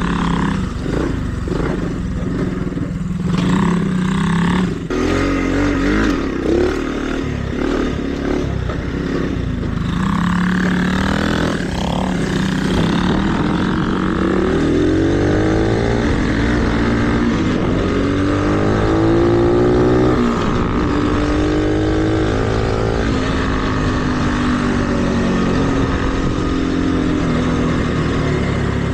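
Mini bike engine running on a dirt trail, its pitch climbing and dropping as the rider opens and closes the throttle, in several rises from about a third of the way in.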